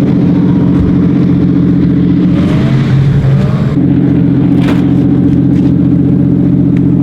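Car engine running at a steady speed, loud and droning, with a brief change in pitch about two and a half seconds in, like a gear change, before settling back to the same steady note.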